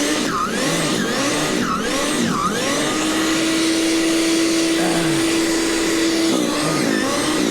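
Gas snowblower engine running, its pitch dipping and recovering in quick repeated swoops, then holding steady for about three seconds before the swoops return.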